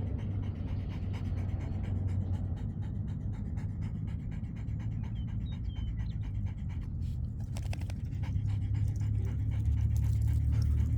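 A retriever dog panting.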